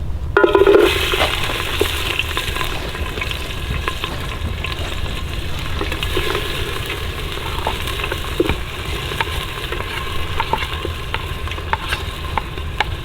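Food frying and sizzling in a pan, stirred with a utensil that gives scattered light clicks. The sizzle surges briefly about half a second in.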